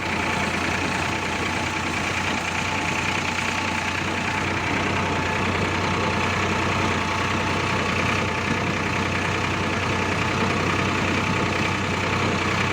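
Escort tractor's diesel engine running steadily at an even idle.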